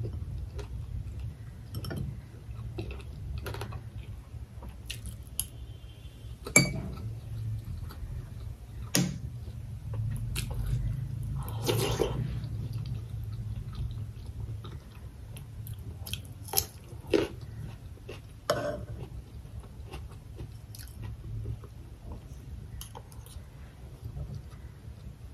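Close-miked chewing of mouthfuls of rice and fried pork, with a few sharp clicks of a metal spoon against the dishes scattered through it.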